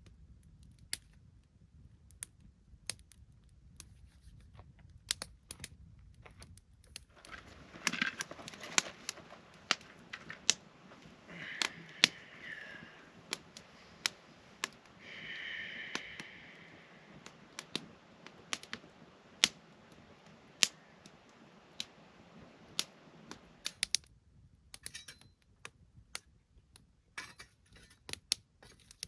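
Campfire crackling, with irregular sharp pops and snaps of burning wood over a faint low background. Two brief higher-pitched tones sound near the middle.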